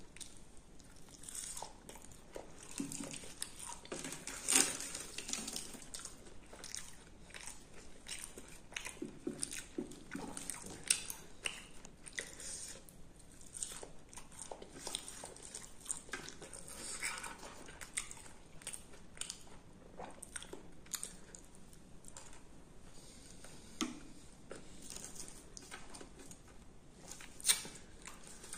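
Close-up eating sounds of a man chewing mouthfuls of puri and aloo dum: irregular wet chewing and small crackles, with a few louder bites along the way.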